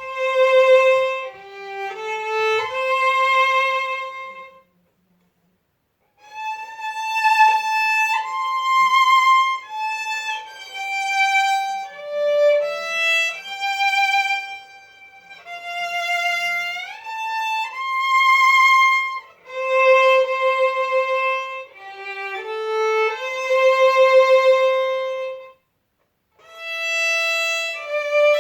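Solo violin playing a slow melody, one note at a time with vibrato and a few slides between notes; it stops briefly twice, about five seconds in and near the end.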